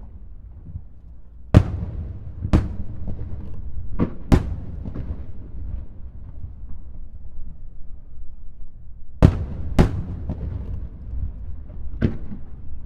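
Aerial fireworks shells bursting: seven sharp bangs in two clusters, a quick run of four and then a pair about five seconds later, with a final bang near the end. Each bang echoes, and a steady low rumble runs underneath.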